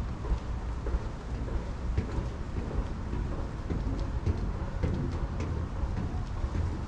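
Wind buffeting the microphone: a low, uneven rumble with scattered crackles.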